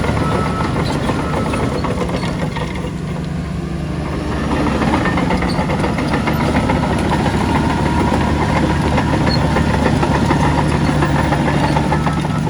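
Heavy diesel engine of earthmoving machinery running steadily, growing louder about four seconds in as it works. A truck's reversing alarm beeps briefly at the start.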